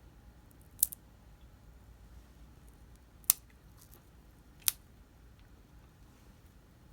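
Three short, sharp snaps or clicks, about a second in, past three seconds and near five seconds, over faint room tone.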